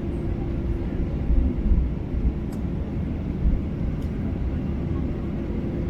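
Cabin noise of a Boeing 737-800 heard from a passenger seat: a steady low rumble from its CFM56-7B engines and the airframe, with a faint steady hum and a few brief bumps.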